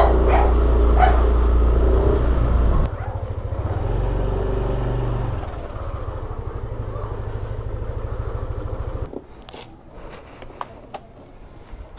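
Motorcycle engine running, dropping to a lower, steady idle about three seconds in, then stopping abruptly about nine seconds in, followed by a few faint clicks.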